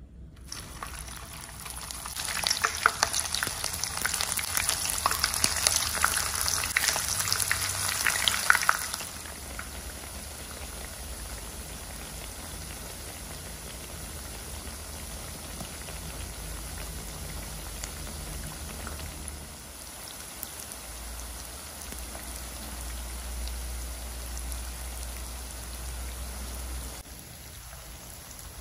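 Tofu strips frying in hot oil. A loud, dense crackling sizzle runs for the first several seconds as the pieces are added, then settles after about nine seconds into a steadier, quieter sizzle.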